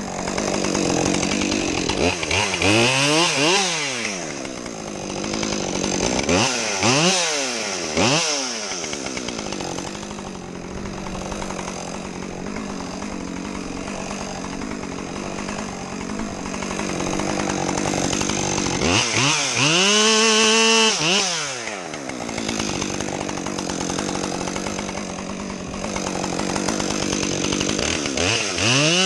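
Two-stroke chainsaw idling steadily and being revved up and let fall back to idle several times, the pitch rising and dropping with each rev; the longest rev is held for about two seconds past the middle.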